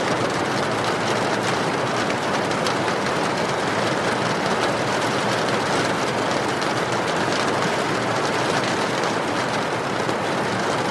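Steady rain, an even hiss with a faint patter of drops.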